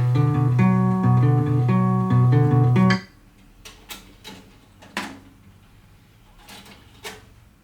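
Guitar music playing from a CD on the Yamaha CDM-900 changer, cutting off abruptly about three seconds in. A few faint clicks and knocks follow.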